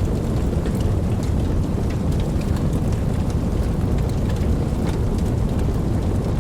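Steady rain: a dense, even wash of falling rain, heaviest in the low range, with scattered sharp ticks of single drops striking nearby.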